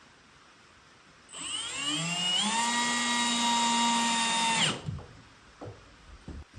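An electric drill's motor spinning up, its whine rising over about a second, running steadily for a couple of seconds and stopping abruptly. A few light knocks follow.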